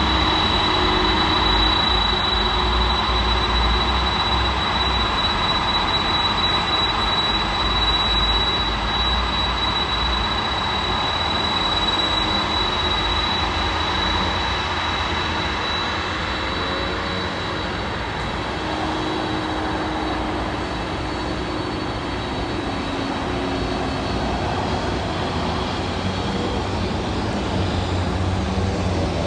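Jet engines of an arriving cargo jet: steady engine noise with a high whine that holds for about the first twelve seconds and then fades, the whole sound slowly growing quieter.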